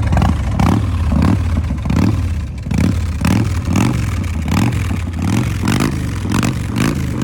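2006 Big Dog Chopper's 1916 cc V-twin engine running, a steady deep rumble with a regular pulse about every half second.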